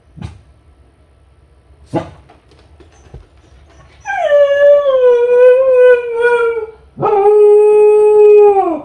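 Kai Ken dog howling alone at home, the lonely call of a dog left by itself. Two short sharp calls are followed by two long howls. The first howl starts high and wavers downward; the second holds steady on one pitch and drops away at the end.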